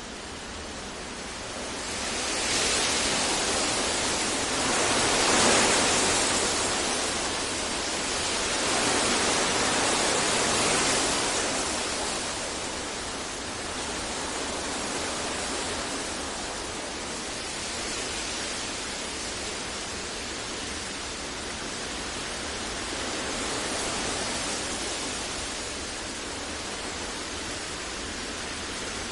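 Generated masking noise for sleep: a continuous even hiss with no tones or rhythm, swelling slowly in loudness a few times, most in the first third, then settling.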